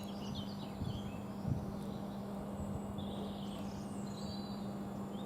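Quiet railway platform ambience: a steady low hum, with small birds chirping faintly and intermittently.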